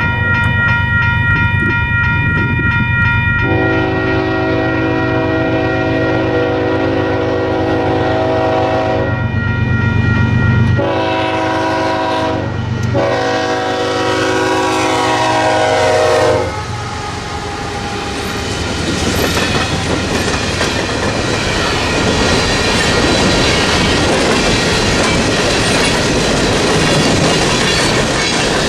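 Freight train locomotive horn sounding at a grade crossing in several long blasts with short breaks, the last cutting off about 16 seconds in. The electronic crossing bell rings at the start, then the train passes with a steady clatter of wheels over the rails.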